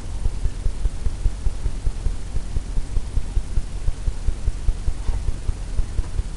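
Painting tool tapping and dabbing white oil paint onto a stretched canvas, giving rapid, irregular low thuds, several a second.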